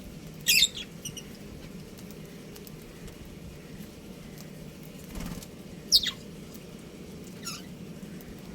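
Budgerigars giving a few short, sharp chirps: one about half a second in, then two downward-sliding calls near the end. There is a brief rustle just before them, over a low steady hum.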